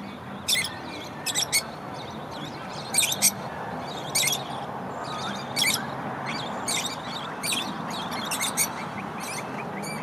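Small birds chirping: short, high calls repeated every half second to a second or so over a steady background noise.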